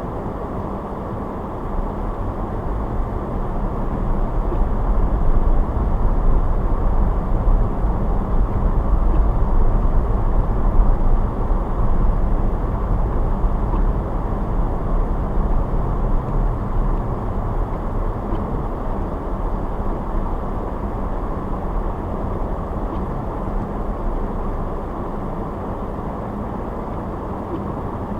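A car driving on the road, with a steady low rumble of tyres and engine. It swells louder a couple of seconds in, holds for several seconds, then gradually eases back.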